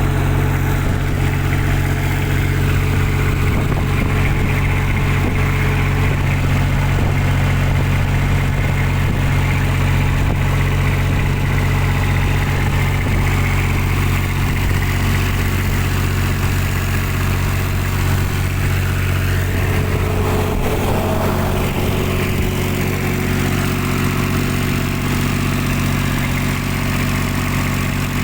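Kubota diesel engine of a light tower running steadily at a constant speed, its note shifting slightly about two-thirds of the way through. It is running again after a clogged primary fuel filter, loose fuel hoses and an air lock in the fuel system were found.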